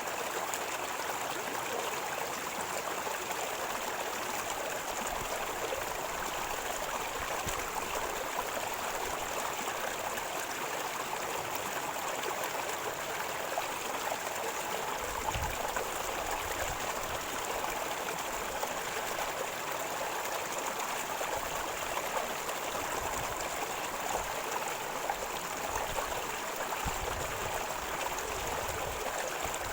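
River water flowing and gurgling steadily over stones, with occasional low rumbles in the second half.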